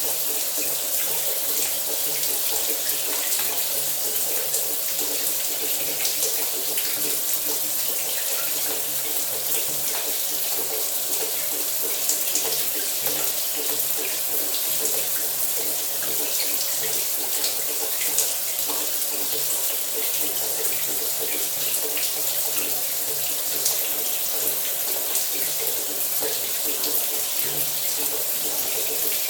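Shower running steadily: a constant hiss of water spray falling, with a fine crackle of droplets and a faint low hum underneath.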